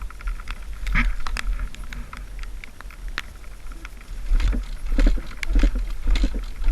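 Scattered sharp clicks and knocks over a low rumble of wind on the microphone.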